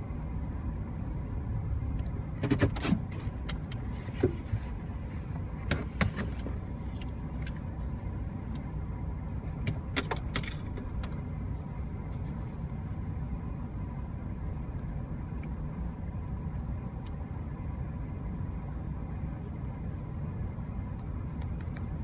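Steady low rumble of a vehicle running, with a handful of sharp clicks or rattles in the first half.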